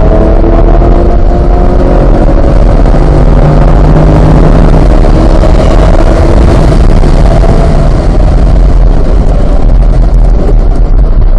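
C8 Corvette's 6.2-litre V8 at full throttle, accelerating hard from about 80 to over 115 mph with an upshift into fifth. Wind and road noise rise with speed, and the engine note falls back as it lifts off to brake near the end.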